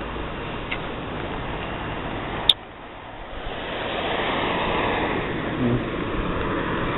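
Street traffic noise with wind buffeting the microphone; a sharp click about two and a half seconds in, then a vehicle passing, the rush swelling and fading.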